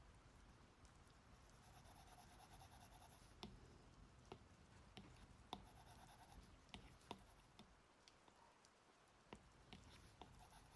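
Faint stylus tapping and stroking on a tablet screen while drawing in Procreate, with scattered light taps over a soft hiss.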